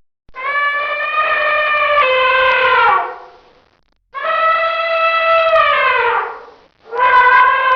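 Elephant trumpeting: three long, clear calls, each about two and a half seconds, with short gaps between them. Each call holds a steady pitch and then slides down as it fades.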